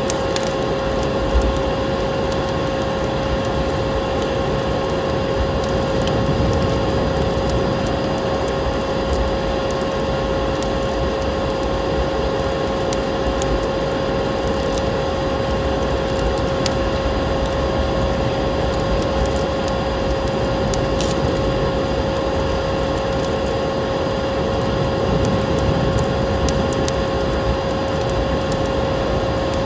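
A vacuum cleaner running with a steady hum and constant whine, over a wood fire crackling in a fireplace with scattered sharp pops.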